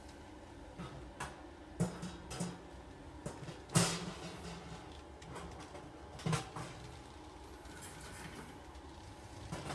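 Scattered irregular sharp clicks and knocks, the loudest about four seconds in, over a low steady background rumble.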